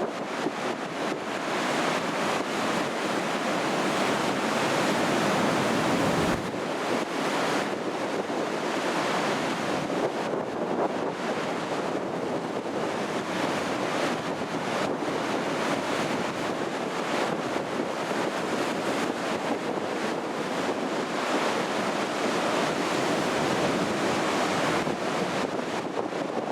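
Heavy sea surf raised by a typhoon, waves breaking and washing in swells every few seconds, with strong wind rushing over the microphone.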